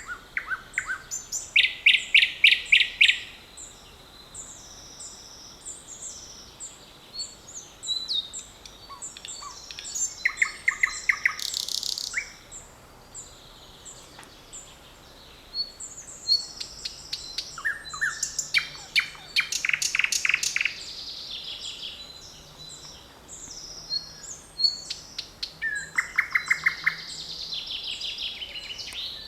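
Several songbirds singing at once. One loud bird repeats phrases of rapid notes four times, every several seconds, over softer chirps and warbles from other birds.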